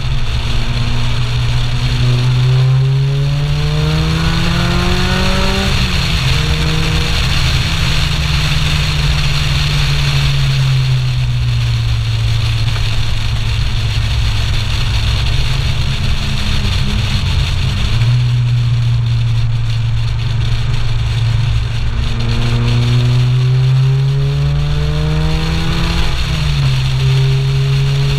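Supercharged Lotus Elise 111R's four-cylinder engine pulling through the gears: the note rises under acceleration, drops sharply at an upshift about six seconds in, then eases off and holds steady, rising again to another upshift near the end. Wind and road noise rush over the outside-mounted camera throughout.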